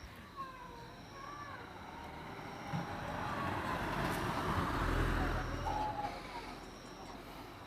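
A vehicle passing by: a broad rushing noise with a low rumble that swells to a peak about five seconds in, then fades away.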